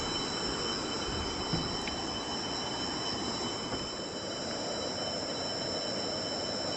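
Steady chorus of insects, several unbroken high-pitched tones holding level, over a constant rushing background.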